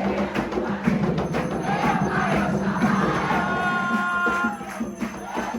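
A group singing a chant over steady hand-drum and rattle or tambourine percussion, typical of an Umbanda ceremony.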